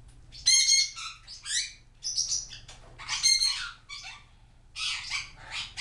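Pet parrots calling: a run of about six loud, high squawks and chirps, each well under a second long.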